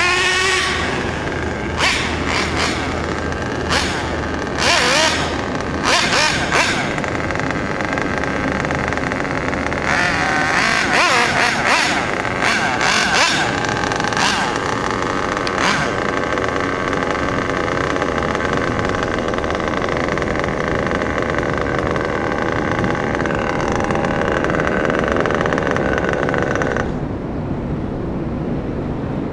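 Nitro glow engine of a 1/8-scale Kyosho Inferno MP9 TKI3 RC buggy on a tuning run after break-in, revving up and down in repeated bursts, then holding a steadier high note. The high engine note drops away suddenly near the end.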